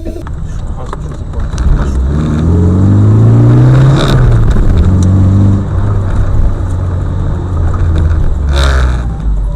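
Motor vehicle engine accelerating, its pitch climbing for a couple of seconds, then dropping and holding steadier. Two sharp knocks are heard, one near the middle and one near the end.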